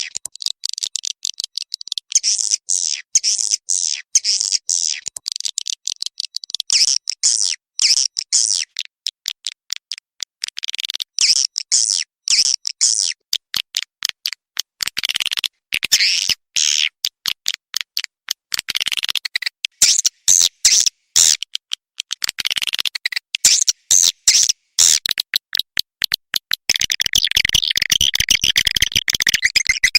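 Swiftlet calls of the kind played to lure swiftlets into a nesting house: trains of rapid, high chirps and twitters with short gaps between them, thickening into a dense, continuous chatter near the end.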